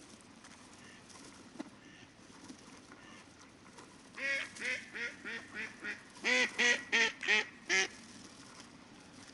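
Ducks quacking in a quick series over a faint, steady river hiss: a run of quieter quacks about four seconds in, then a louder run of about five quacks that stops before the end.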